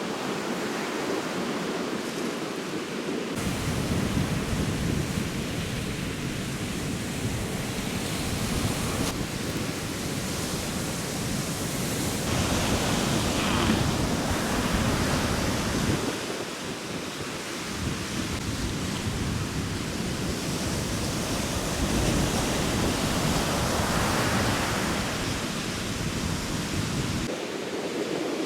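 Sea surf washing onto a beach in a strong monsoon wind, with wind rumbling on the microphone in long gusts that start a few seconds in, drop away briefly around the middle and stop near the end.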